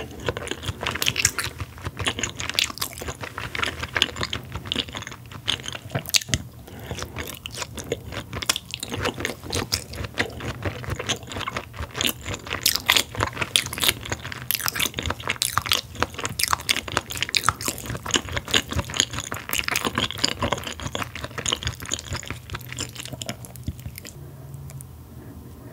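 Close-miked chewing of raw hanwoo beef yukhoe, rib-finger meat dressed with egg yolk and sesame oil: a steady stream of short mouth-and-food clicks and smacks, thinning out near the end.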